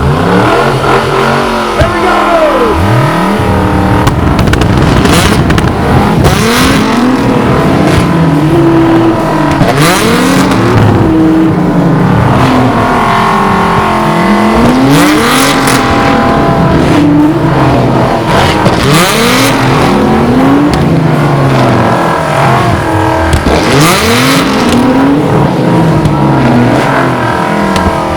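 Several tuned performance cars revving hard together in a flame-spitting display, their engine notes rising and falling over and over, with repeated exhaust bangs.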